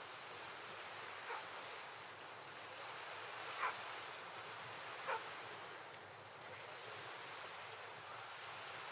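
Steady outdoor background hiss with three brief, sharp chirps spread through the first half.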